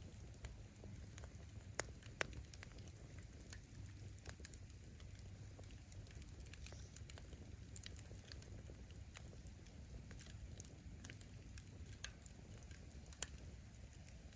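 Wood fire burning with a low steady rush, sharp crackles and pops of the firewood scattered throughout; the loudest pops come a little under two seconds in, just after two seconds, and near the end.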